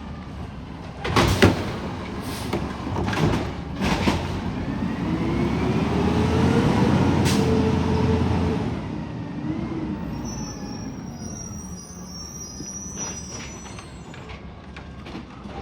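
Garbage truck at work: several sharp bangs in the first few seconds, then the engine revs up for about four seconds and drops back. A thin high whine follows.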